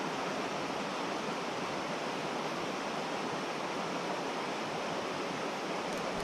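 Steady rushing of creek water flowing over shallow rock ledges, an even hiss with no single events.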